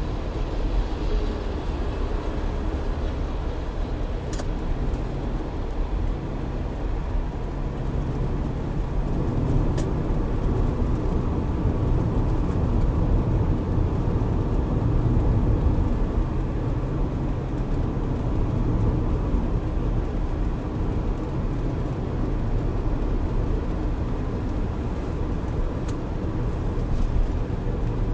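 Steady engine and road rumble of a moving vehicle, heard from inside the cabin, with a few faint clicks.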